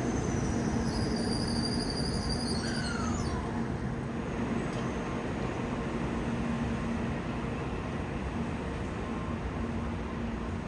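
Train running: a steady rumble with a low hum, and several high whining tones that slide downward and stop about three seconds in.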